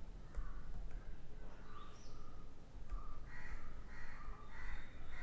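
Birds calling in the background: a series of short, repeated calls, higher-pitched from about three seconds in, over a low steady rumble.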